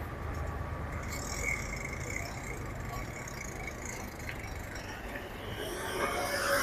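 Wind and rolling noise while riding a bicycle: a steady low rumble with hiss, growing louder near the end.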